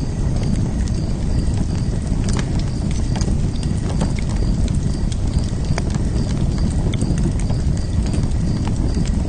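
Wood fire burning in a fire pit: a steady low rumble of flames with scattered sharp crackles and pops. A faint high chirp repeats about twice a second behind it.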